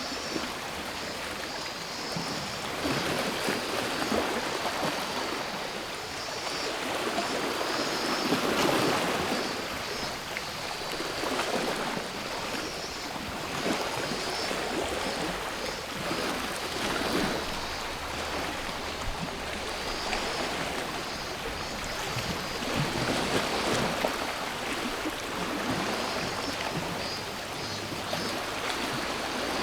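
Sea waves washing onto the shore, swelling and falling back every few seconds, with cicadas buzzing in a high band through much of it.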